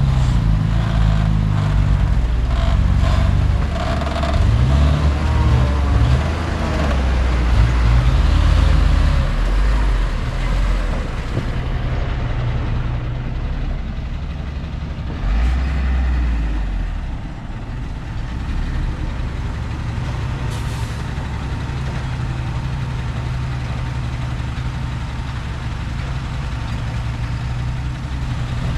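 Heavy diesel earthmoving machinery working. The engine note rises and falls with changing load through the first ten seconds, surges briefly about fifteen seconds in, then settles to a steady drone.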